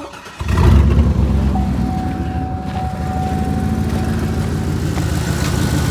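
2007 Chevrolet Silverado's 6.0-litre V8 starting about half a second in, flaring up loudly, then settling into a steady idle, with a thin steady whine over it for a couple of seconds.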